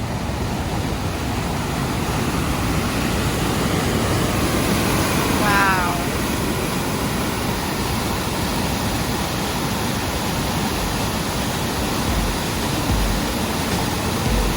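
Steady rushing of a cascading mountain river, the Tye River's rapids and falls.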